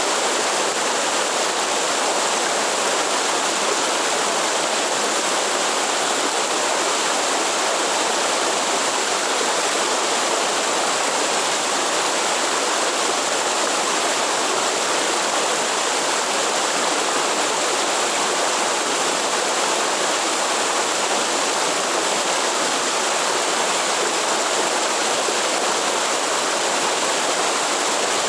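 Waterfall in the Atlantic Forest, water falling and rushing steadily with an even hiss and no breaks.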